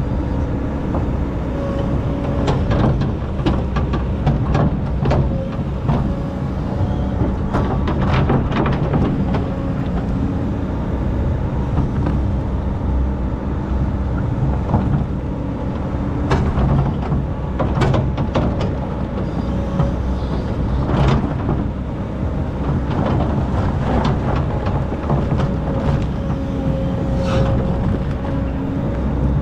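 Excavator's diesel engine running steadily while digging sand, with repeated clanks and scrapes scattered through.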